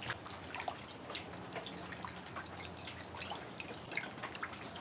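Water dripping: irregular small drips and ticks, several a second.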